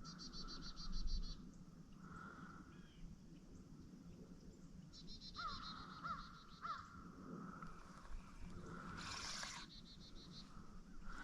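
Several birds calling: bursts of rapid, high-pitched trills that come again and again, mixed with lower crow-like calls and three short falling notes.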